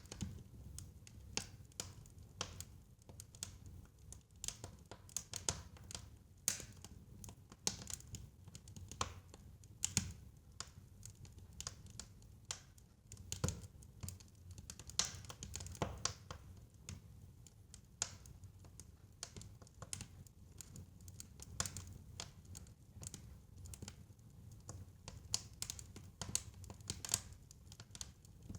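Fireplace fire crackling: irregular sharp pops and snaps, some close together and some spaced out, over a low steady rumble of the flames.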